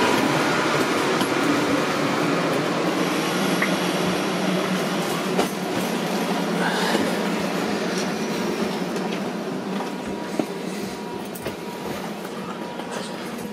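Steady rushing noise of a Siemens Desiro HC electric train standing at the platform with its doors open, heard from inside the carriage and slowly getting quieter, with a few light knocks.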